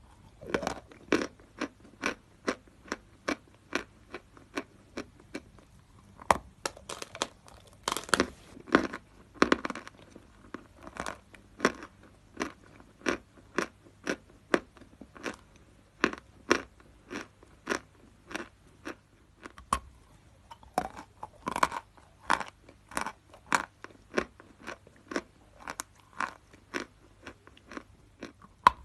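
Natural chalk being chewed: a steady run of sharp, dry crunches, about two a second, with a loud bite at the very start.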